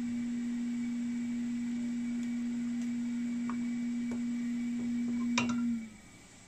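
Multimeter buzzer sounding one steady low beep while its probes rest across a component in diode mode, stopping near the end with a click as the probes come off. The continuous beep marks a shorted, failed component.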